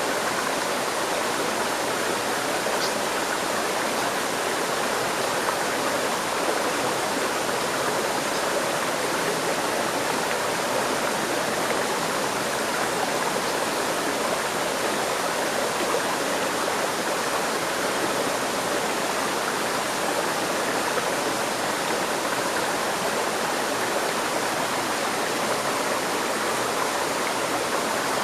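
Steady rushing and babbling of a flowing river stream, an even wash of water noise with no other sounds.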